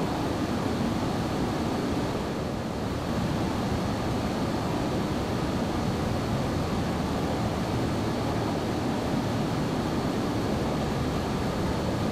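Boeing 737-800's CFM56 jet engines and airflow making a steady, even rushing noise, with a faint high whine.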